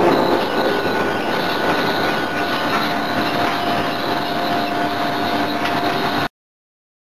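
Steady industrial machinery noise in a forging shop, a continuous mechanical drone with faint steady hum tones and no hammer blows; the sound cuts off abruptly about six seconds in.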